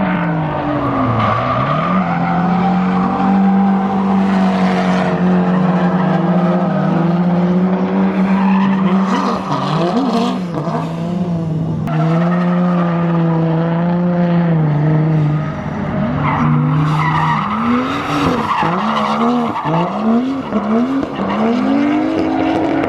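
Drift car engine held near high revs while the tyres squeal and skid through a slide, the note dipping once near the start. In the last several seconds it breaks into quick rising-and-falling revs as the throttle is worked.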